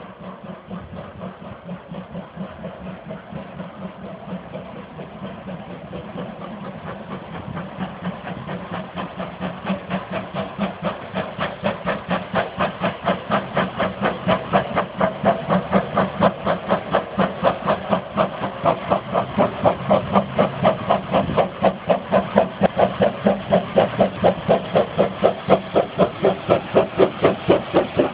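Steam locomotive working hard, its exhaust chuffing in an even rhythm of about three and a half beats a second, with steam hiss. It grows steadily louder as it draws closer.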